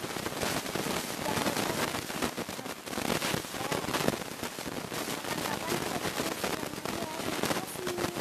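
Slime being squeezed and worked by hand, with a dense, continuous crackle of small air-bubble pops.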